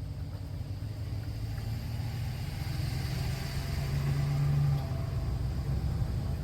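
A motor vehicle engine running with a low, steady rumble that grows louder toward the middle.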